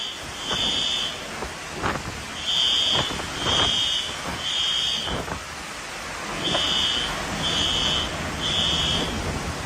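High-pitched electronic alarm beeping in groups of three, about one beep a second with a pause between groups, the three-beep pattern of a smoke alarm signalling fire. Under it a steady rush of wind and rain.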